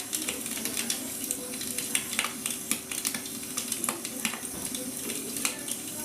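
Wood fire crackling: irregular sharp pops and snaps over a steady hiss, with a faint steady hum underneath.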